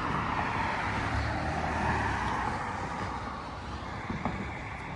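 Road vehicle noise: a motor vehicle's engine and tyres, a steady rumble that slowly fades, with a small knock about four seconds in.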